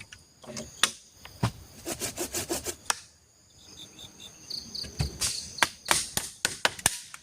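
Forest insects chirping, with a run of sharp knocks and rubbing scrapes. The sound drops out briefly about three seconds in, then steady high insect calls and short pulsed chirps come in.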